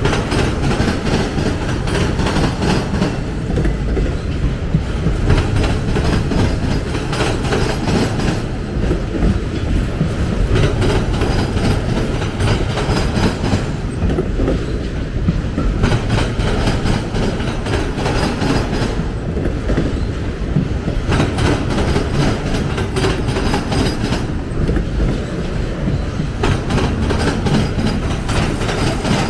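Slow freight train of autorack cars rolling past close by: a steady rumble of steel wheels on rail with a running clickety-clack of wheels clicking over the track.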